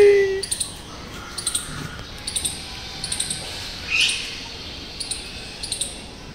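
A small bird chirping in quick clusters of two or three high notes, about once a second. A loud, high, held call slides down in pitch and fades out in the first half second.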